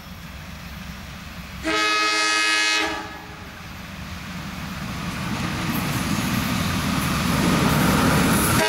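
Train horn sounding one blast of just over a second. The rumble of the approaching train then grows steadily louder, and a second horn note begins right at the end.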